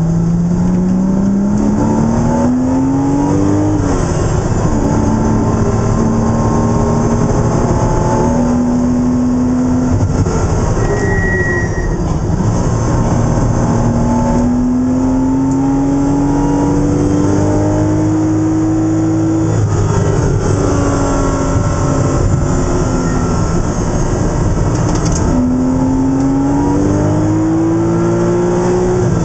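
Porsche Boxster race car's flat-six engine, heard from inside the cabin, revving up under hard acceleration and dropping sharply several times as the driver shifts or lifts for corners, over steady road and tyre noise.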